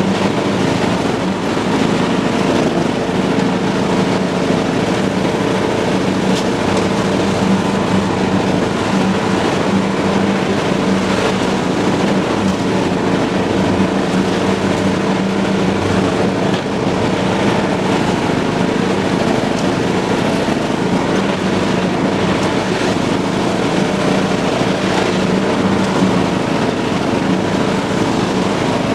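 John Deere lawn tractor running at a steady speed while cutting grass, its engine hum holding even throughout.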